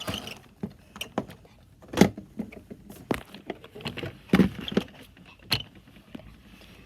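Toy cars being handled and swapped between hands: irregular clicks and knocks of hard plastic, the loudest about two seconds in and near the end of the handling, which stops about five and a half seconds in.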